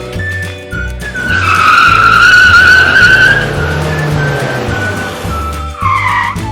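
A cartoon tyre-screech sound effect, a loud wavering squeal lasting about two seconds and starting about a second in, over background music with a repeating bass beat. A shorter squeal comes near the end.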